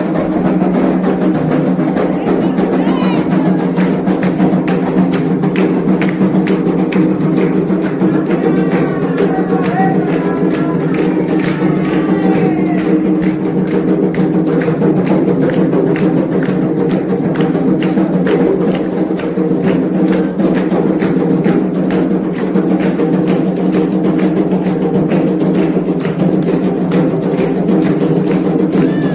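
Candomblé ritual drumming on atabaque hand drums: a fast, steady, dense beat. Singing voices rise over it briefly in the middle.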